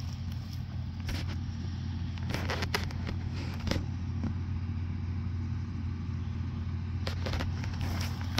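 International 1460 combine running steadily, a low engine drone with scattered knocks and rattles.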